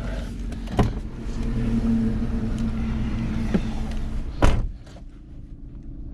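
An engine running steadily with a mechanical hum. There is a click about a second in and a loud clunk about four and a half seconds in, after which the sound drops to a quieter hum.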